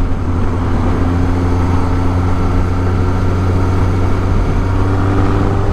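1983 Suzuki GS1100E's air-cooled inline-four engine running at a steady, even pitch while the bike is ridden, with road and wind noise over it.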